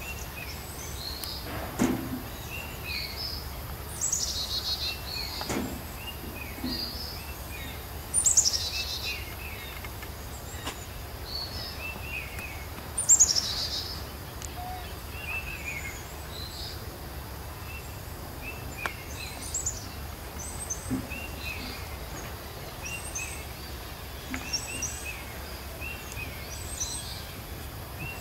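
Birds calling: a high call that falls in pitch repeats every four or five seconds, with many short chirps between, over a steady low hum.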